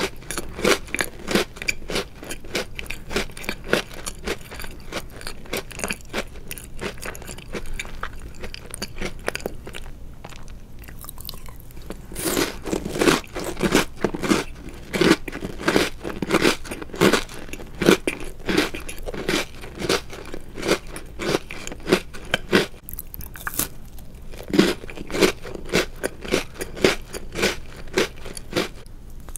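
Chocolate-covered Oreo cookies being chewed, a steady run of crisp crunches several times a second. The crunching softens for a few seconds about a third of the way in, then turns louder again.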